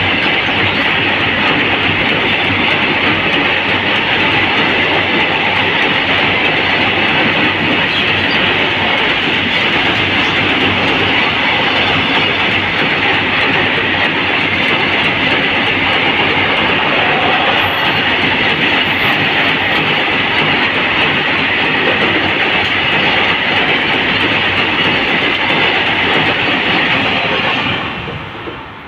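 Freight train wagons passing at speed at close range over a steel girder railway bridge: a loud, steady rolling rumble and rattle of wheels on rails. It drops away sharply near the end as the last wagon clears.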